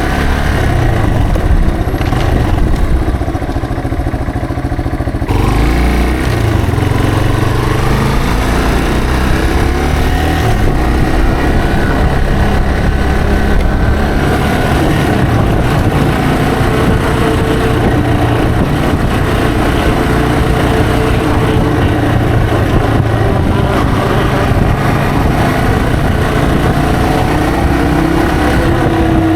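Yamaha TW225's single-cylinder four-stroke engine running under way. The engine note eases off for a few seconds near the start, then picks up again and rises and falls as the bike changes speed.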